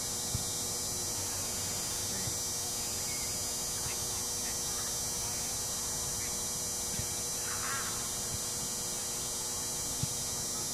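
Steady hiss and hum of outdoor sideline ambience, with a faint distant shout about three-quarters of the way through and a couple of soft thumps, one near the start and one near the end.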